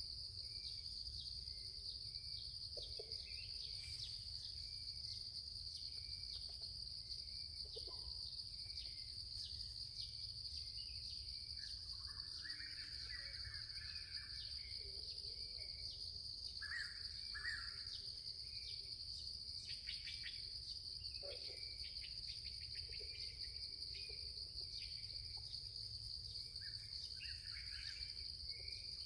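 Insects shrilling steadily at a high pitch, with scattered short bird calls over it.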